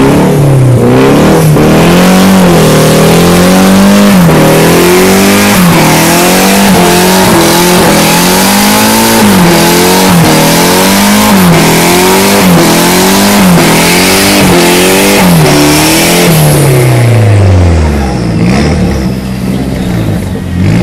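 Car engine revved hard over and over, its pitch climbing and dropping about once a second, with the hiss of wheels spinning during a burnout. Near the end the revs fall away in one long drop and the engine runs quieter.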